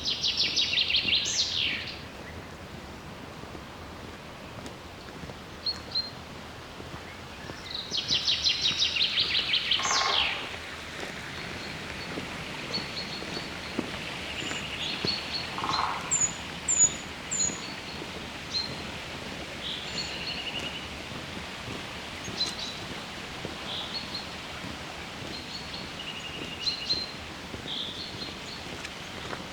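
Wild songbirds singing: two loud rapid trills, each about two seconds long, one at the start and one about eight seconds in, with short high chirps and calls scattered through the rest, over a steady background hush.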